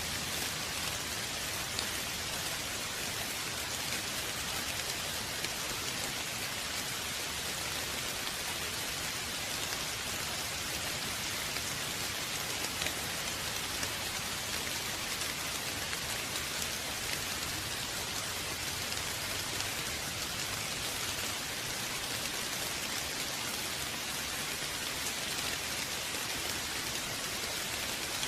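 Steady rain falling: an even hiss of rain on surfaces, with occasional separate drops ticking through it.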